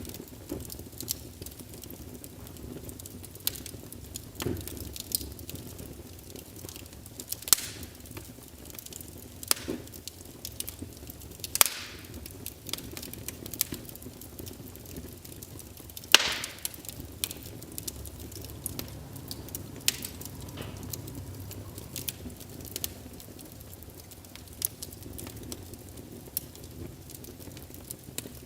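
Wood fire crackling in a fireplace: irregular small snaps and pops over a low steady flame noise, with a few louder sharp pops, the loudest just past halfway.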